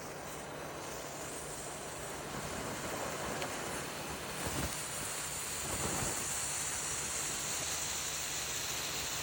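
Small Class 1 Irrlichter firework burning as a yellow and blue Bengal flame, giving a steady hiss that grows stronger about four seconds in.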